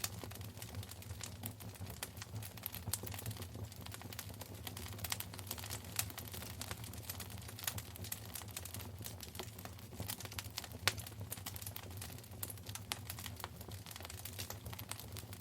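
Wood fire crackling in a fireplace: a dense, irregular run of small snaps and pops, with a couple of louder pops about six and eleven seconds in, over a steady low hum.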